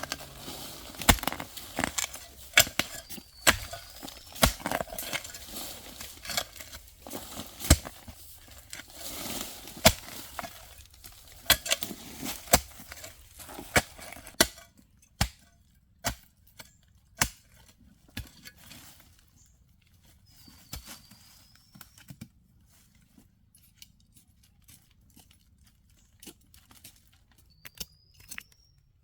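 Irregular sharp knocks and clicks over rustling, coming thick and loud for about the first half, then thinning to scattered faint clicks. A short high chirp is heard a few times.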